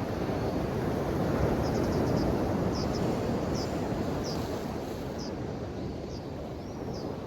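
Ocean waves washing onto the shore, one swell rising and falling away. A small bird chirps repeatedly over it, a short call about every second.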